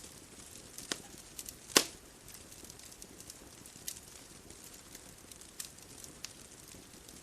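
Wood fire crackling: scattered sharp pops and snaps, one much louder pop about two seconds in, over a soft steady hiss.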